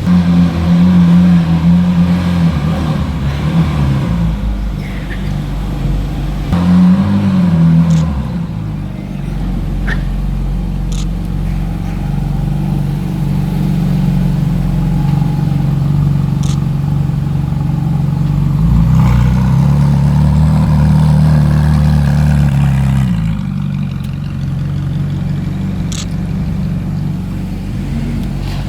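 Sports car engines running at low speed, with a brief rev about seven seconds in and a steady drone through the middle that drops away about two-thirds of the way through. A few sharp clicks sound over the engine noise.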